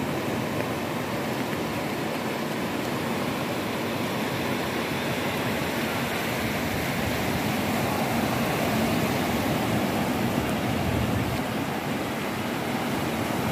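Ocean surf breaking and washing on a beach: a continuous rush of noise that swells a little about eight seconds in.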